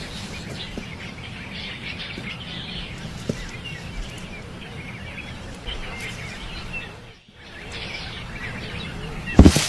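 Small birds chirping over a steady low background noise. The sound drops out briefly about seven seconds in, and a short loud burst comes near the end.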